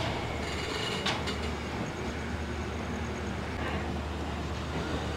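Express passenger train (12134 Superfast Express) pulling slowly out of the station, heard from an open coach doorway: a steady low rumble of wheels and running gear, with a single knock about a second in.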